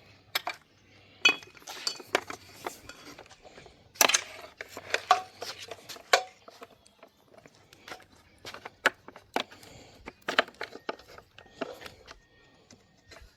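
Irregular metallic clinks, taps and knocks of tools and engine parts being handled, with a few sharper knocks standing out.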